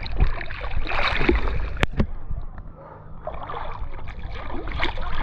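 River water splashing and gurgling around a whitewater kayak holding a stern stall, with sharp slaps of water against the boat and paddle; it drops quieter for about a second midway.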